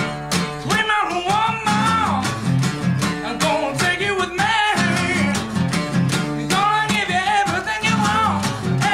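Live acoustic rock performance: strummed acoustic guitar with a male vocalist singing the melody.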